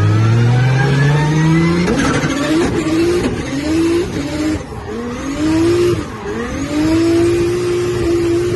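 Drift car's engine at high revs: the pitch climbs for about two seconds, then wavers up and down with the throttle through the drift, and holds steady over the last part.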